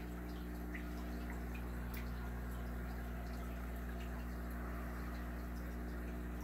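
Aquarium water circulating with a steady mechanical hum and faint scattered drips and trickles.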